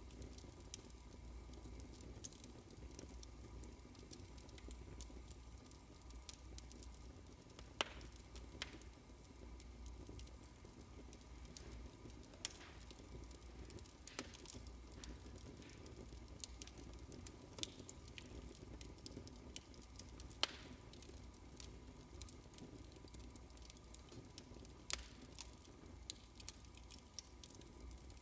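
Fireplace crackling faintly: irregular small pops and snaps over a low steady hum.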